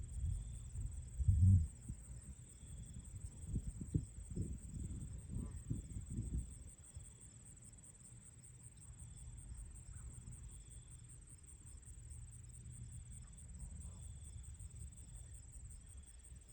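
Crickets trilling steadily and high, with a fainter intermittent insect chirp lower down. Low gusts of wind rumble on the microphone for the first six seconds or so, then ease off.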